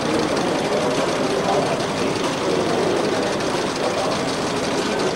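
Small model heat engines running steadily, with a fast, even mechanical clatter.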